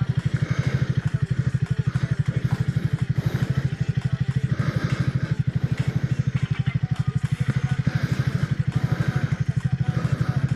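Triumph Speed 400's single-cylinder engine and exhaust running at a steady engine speed, a rapid, even train of thumping exhaust pulses.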